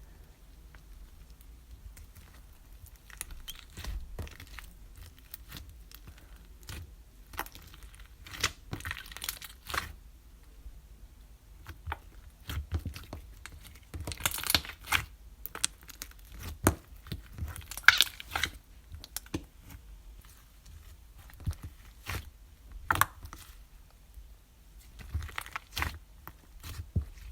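Slime being pressed, poked and stretched by hand: irregular sticky crackling and popping clicks, with several louder bursts of crackle a few seconds apart.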